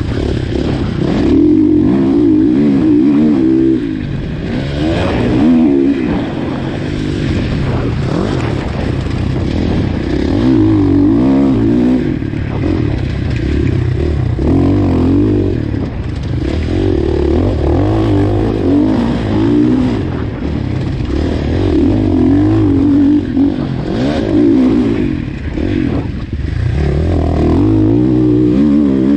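2019 KTM 450 SX-F motocross bike's single-cylinder four-stroke engine being ridden hard. The pitch rises and falls every few seconds as the throttle is opened and shut through the track's sections.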